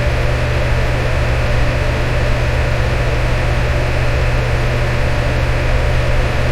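Electric fan running steadily, a constant rush of moving air over a deep motor hum.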